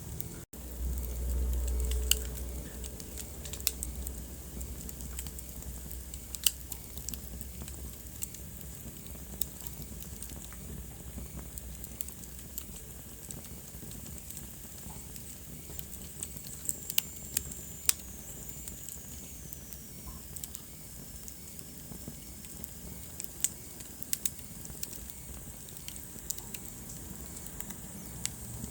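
Wood fire burning in a fireplace, crackling with frequent sharp pops over a steady hiss. There is a low rumble in the first couple of seconds, and a faint high whistle slides down in pitch around the middle.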